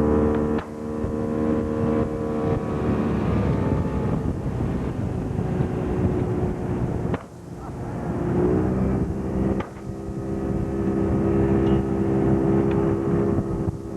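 A boat's motor running steadily, with a brief rise in pitch about eight and a half seconds in and a few abrupt breaks in the sound.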